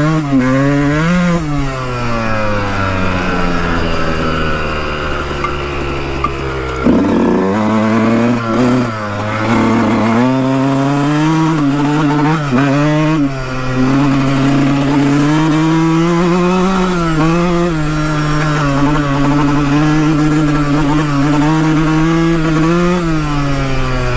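Dirt bike engine running under way, its pitch following the throttle: it winds down over several seconds, then revs sharply about seven seconds in. A run of rises and drops follows before it holds fairly steady with a few brief blips.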